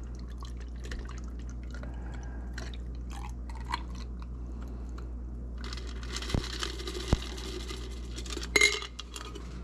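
A shaken cocktail strained from a shaker into a tall glass of ice: light clinks of ice and glass, then the drink pouring in a steady stream for about three seconds near the end, with a few sharper clinks.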